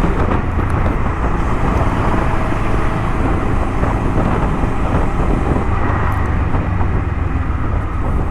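Honda Transalp 650's V-twin engine running at a steady cruise, under heavy wind noise buffeting the helmet microphone.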